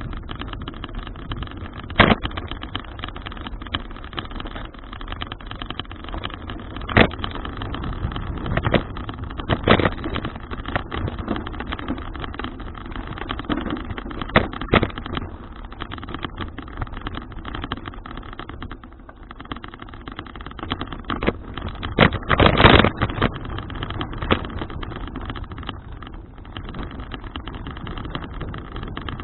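Steady wind and rolling noise on an action-camera microphone riding along on a moving folding bicycle, broken by several sharp knocks and rattles, the loudest about 22 seconds in.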